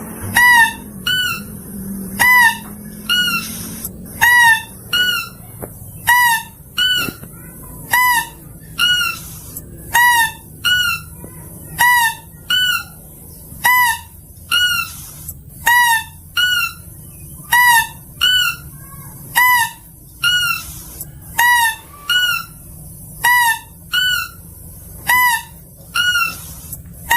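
Mouse-deer (kancil) lure call recording: short, high, honking calls with a slight downward hook, repeated about once a second, each followed by a softer, higher note.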